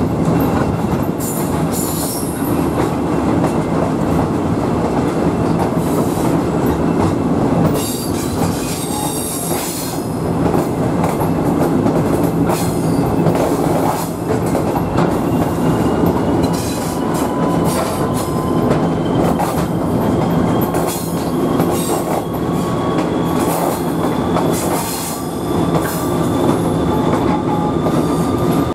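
Train ride: a steady rumble of wheels on the rails, with short high squeals and clicks from the wheels now and then, and a faint whine slowly rising in pitch over the second half.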